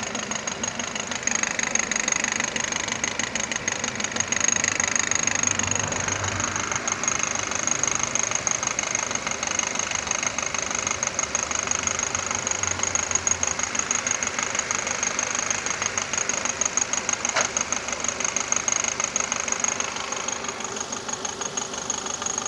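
Renault Duster engine idling with a rapid, steady ticking knock from the engine bay, over a steady high whine. This is the strange engine noise the owner cannot identify.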